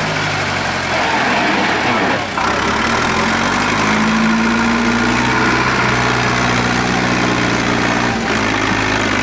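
Tractor diesel engine running hard, straining to get through deep mud. Its pitch shifts a few times, with a short dip about two seconds in.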